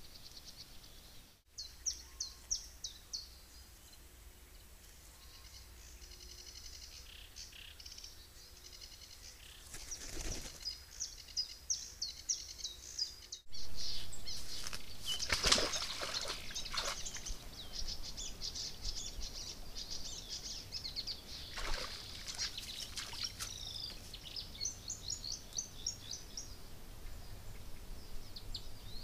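Several small birds singing and chirping in quick high trills over a steady background hiss, with a few brief louder noises, the strongest about halfway through.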